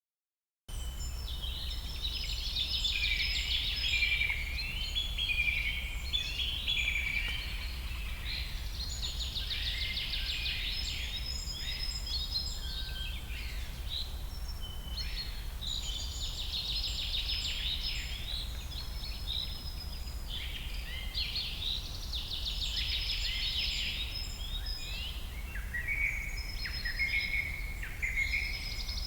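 Songbirds chirping and singing, with many overlapping calls and quick trills, over a steady low rumble; it starts abruptly just under a second in.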